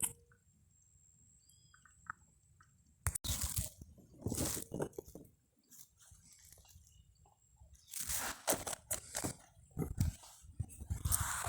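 Irregular close-up crunching and rustling that starts about three seconds in, after a quiet stretch with a few faint high chirps.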